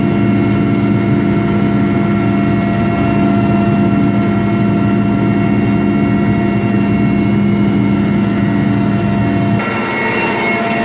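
Military helicopter in flight heard from inside the cabin: a loud, steady drone of engines and rotor with constant whining tones. Near the end the low drone drops away and the higher whine comes forward.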